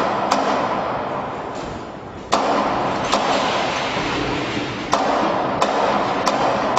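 Machinery running: a steady noisy hum with sharp clicks at about one and a half a second, jumping up in loudness suddenly twice.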